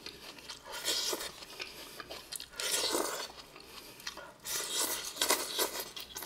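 A person chewing and crunching mouthfuls of shredded lettuce and noodles close to the microphone, in several bursts a second or two apart.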